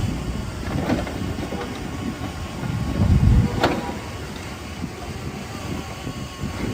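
Diesel engine of heavy earthmoving machinery running with a low rumble, swelling about three seconds in, followed by a single sharp metallic clank.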